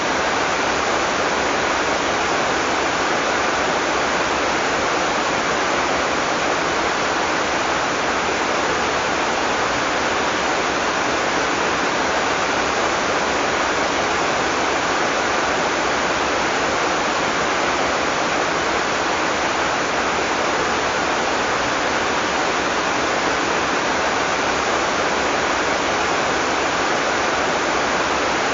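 Heavy rain falling steadily, a dense even hiss with no thunder and no single drops standing out.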